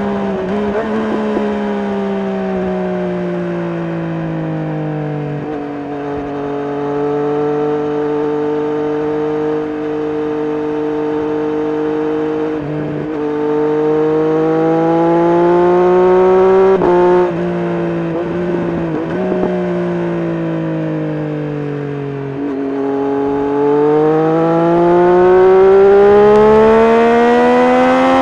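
Triumph Street Triple RS three-cylinder engine through an SC-Project S1 exhaust, under way: the engine note drops over the first few seconds, holds steady, breaks off briefly three times in the middle as gears are changed, dips again, then climbs steadily under hard acceleration near the end.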